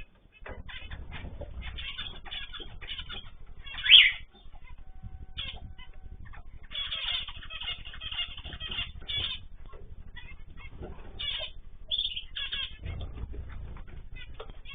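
Small cage birds chirping and calling in many short notes, with one loud call about four seconds in and a burst of dense chatter from about seven to nine seconds.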